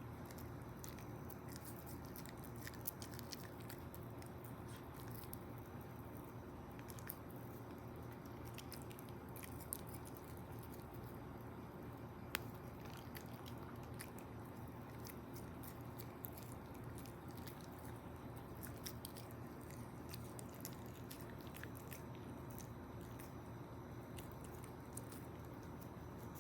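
Toy poodle puppy eating: faint, irregular chewing clicks throughout, with a few sharper ones about 3, 10 and 12 seconds in, over a steady low hum.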